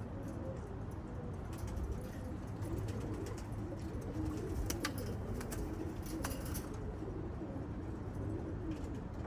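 Domestic pigeons cooing: low, wavering calls that repeat throughout, over a steady low hum. A few faint clicks come about halfway through.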